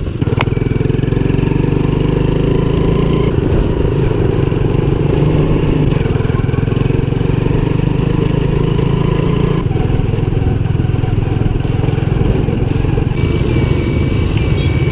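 Small motorcycle engine running steadily under way, with rough low rumble from riding. The sound shifts about ten seconds in, and short high chirping tones come in near the end.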